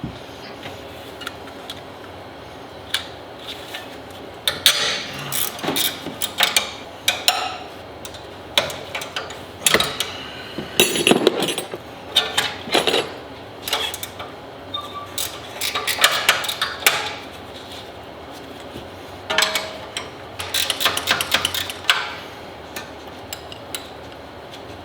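Irregular metallic clanks and clicks of hand tools and metal parts being handled and set down, some briefly ringing, in bursts with short pauses between them, over a steady low background hum.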